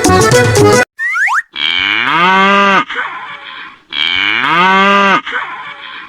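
Music stops just under a second in, then a short rising cartoon glide, then two long mooing calls of a cow or bull, as cartoon sound effects.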